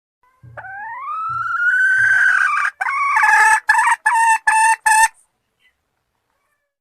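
Call of a junglefowl hen, the kind played to lure males. It is one long rising note of about two seconds, followed by four short clipped notes.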